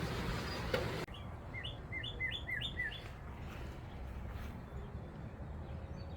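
Small songbird giving a quick run of about six short, sharp, falling chirps: the agitated calling of birds with a black rat snake in their nest tree.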